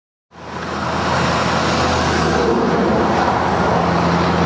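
Motor vehicle running on a road: a steady low engine hum under loud road and traffic noise. It cuts in abruptly about a third of a second in.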